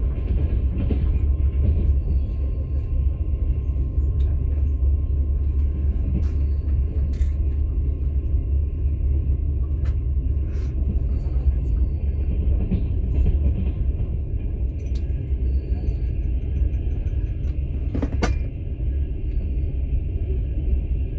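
Steady low rumble of a moving passenger train heard from inside a platzkart sleeper car, with scattered faint clicks and one sharp click about 18 seconds in.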